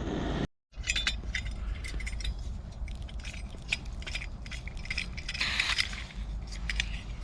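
Small metal clicks, clinks and scrapes as a camping gas burner is unscrewed and a multi-hole burner screwed onto a small gas canister, with a brief hiss about five seconds in.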